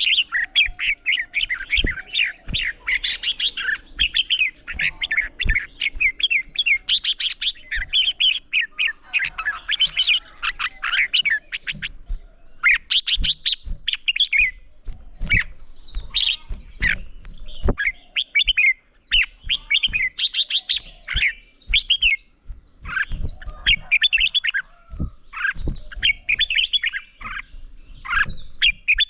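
Red-whiskered bulbuls in competitive song, a rapid run of short warbling phrases with brief pauses, and sharp clicks scattered between the phrases.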